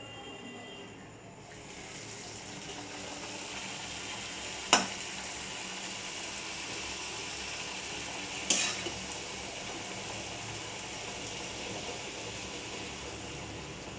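Hot oil sizzling steadily in a pan as food fries. The sizzle swells about a second and a half in, and a utensil clinks sharply against the pan twice.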